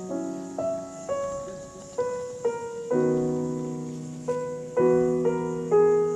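Background piano music: a slow melody of struck notes that ring and fade over held chords.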